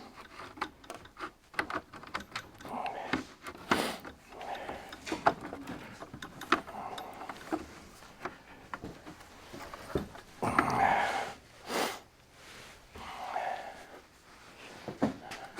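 Scattered light clicks and knocks of metal parts as a truck seat base's track and lock mechanism are handled and fitted together. A longer scraping sound comes a little past the ten-second mark.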